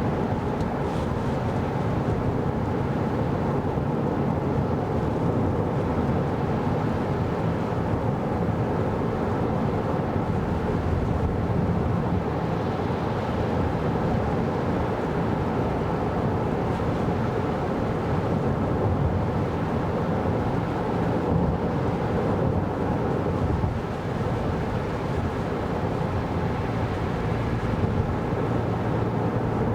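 Steady road and tyre noise with a low drone from a 2024 Kia Carnival Hybrid minivan driving along, even and unbroken throughout.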